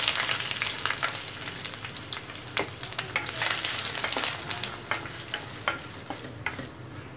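Raw prawns sizzling in hot oil in a stainless steel pan, the sizzle loud at first and fading steadily as they fry. A wooden spatula stirs and scrapes them, giving scattered sharp clicks against the pan.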